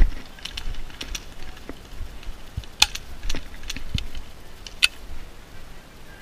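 Scattered sharp clicks and light knocks, the two sharpest about two seconds apart, over a low rumble.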